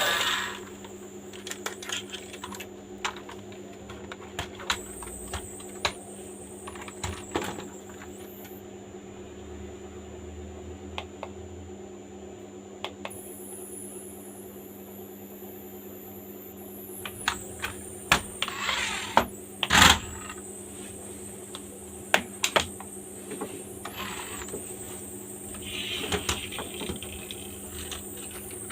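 Scattered clicks and taps of small plastic parts being handled, over a steady low hum, with a louder cluster of clatter about two-thirds of the way through.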